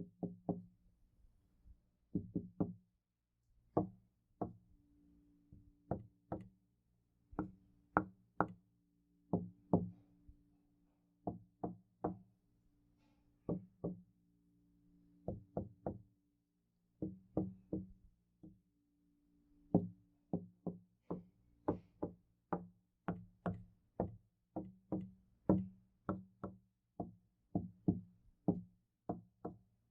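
Knocking on a door in quick irregular clusters of two to four knocks, repeated over and over.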